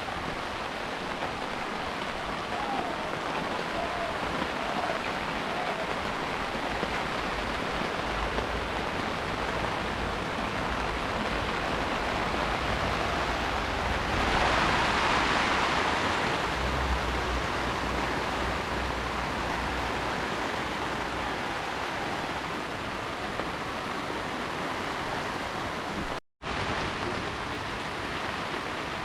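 Heavy rain falling steadily as an even hiss, which grows louder for a couple of seconds about halfway through. The sound cuts out for an instant near the end.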